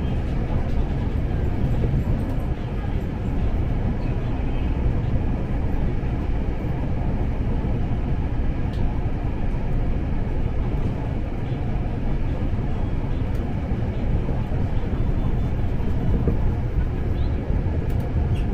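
Former Tokyo Metro 6000-series electric commuter train running, heard from inside the carriage: a steady low rumble of wheels on track and traction motors.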